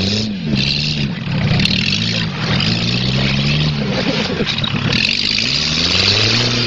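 Car engine revving up and falling back again and again as the stripped-down car spins on loose dirt, with bursts of hiss that come and go.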